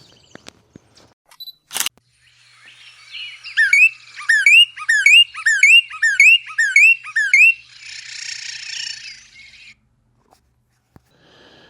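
A songbird singing loudly: a rapid run of about eight identical sweeping whistled phrases, about two a second, followed by a harsh buzzy chatter. A single sharp click comes shortly before the song.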